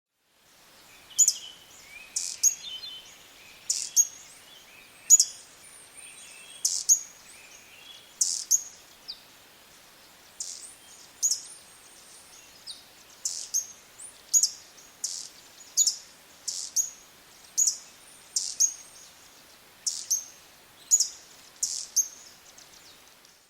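Small bird repeating a short, sharp, high chirp about once a second, with softer, lower twittering during the first third.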